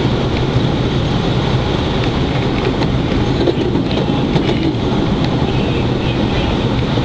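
PATH commuter train running along the rails, heard from inside the front car: a steady loud rumble of wheels on track, with a few light clicks about halfway through.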